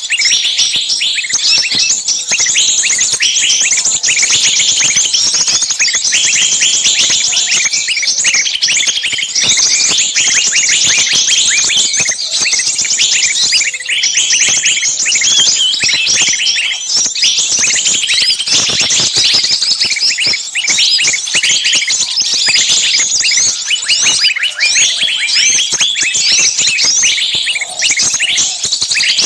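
Many small birds chirping at once in a dense, continuous, high-pitched chatter of rapid overlapping calls.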